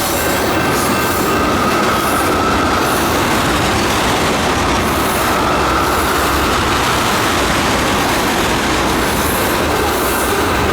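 Norfolk Southern ethanol freight train rolling past at speed: a loud, steady rumble of steel wheels on rail, with a thin wheel squeal that comes and goes.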